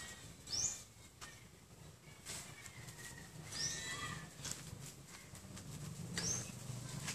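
A bird calling: short high notes that slide downward, repeated about every two to three seconds, with one longer, lower falling call about four seconds in.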